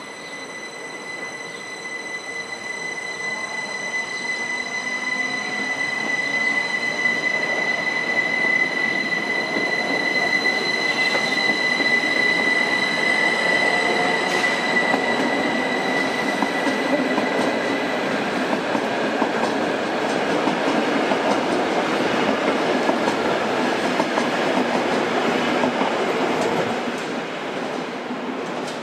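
Rhaetian Railway Allegra electric multiple unit running slowly past on metre-gauge track, its wheels rumbling over the rails as it draws near and goes by. A steady high-pitched whine sounds through the first two-thirds and then fades out.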